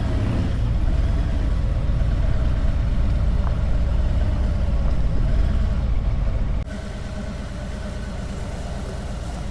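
Motorcycle engine running with a deep, steady rumble. It drops abruptly to a quieter rumble about two-thirds of the way through.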